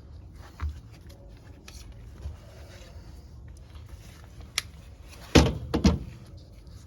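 A few light clicks, then a quick cluster of loud knocks and clatter about five and a half seconds in: tools and metal parts being handled.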